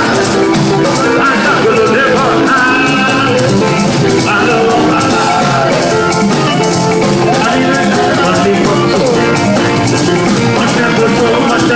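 Live band music: a guitar melody over a steady shaker and drum beat.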